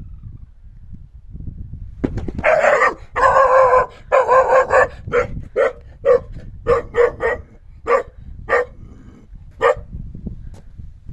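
An animal barking, dog-like: three long, drawn-out calls starting about two seconds in, then a quick run of short barks that thins out toward the end. A low rumble runs underneath.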